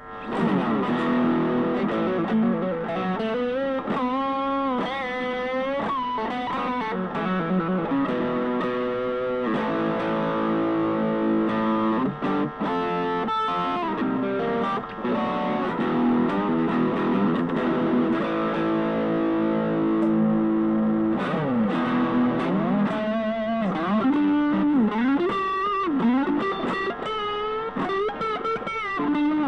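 Fusion Stratocaster-style electric guitar played through distortion. It starts suddenly with lead lines whose notes bend up and down in pitch, holds steady notes through the middle, then returns to bending lead phrases near the end.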